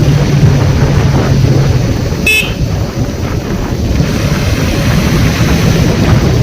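Motorcycle running steadily at road speed, loud throughout, with a short horn toot about two seconds in.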